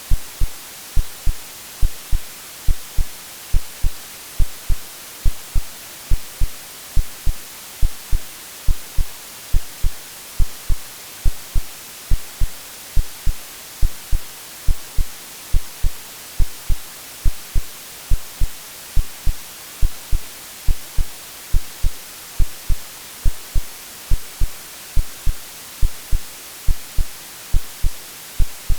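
AI-generated heartbeat over steady white noise: paired low lub-dub thumps repeating evenly about once a second, with a constant bright hiss underneath.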